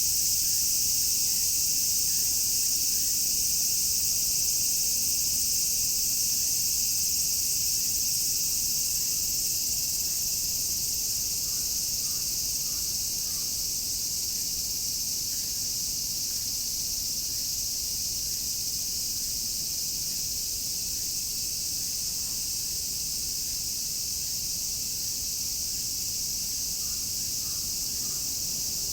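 Dense chorus of many cicadas shrilling together in a continuous, high-pitched hiss that eases slightly about halfway through.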